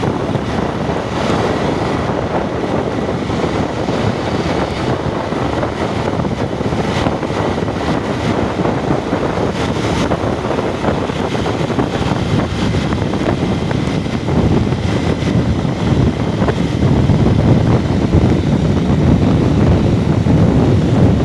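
Wind buffeting the microphone over a vehicle's running noise while driving, as a steady, loud rush that gets a little louder near the end.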